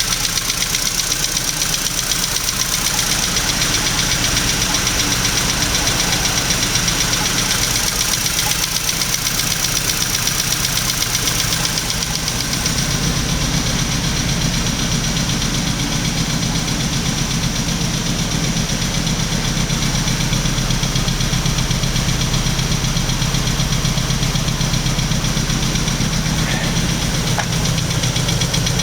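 BMW 320Si four-cylinder petrol engine idling after a cold start; the engine has a fault that needs attention. About twelve seconds in, the sound turns deeper.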